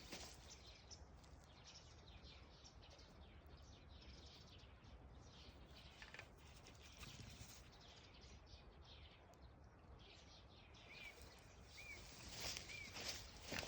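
Japanese green woodpecker giving three short whistled 'pyū' notes about a second apart near the end, over faint rustling.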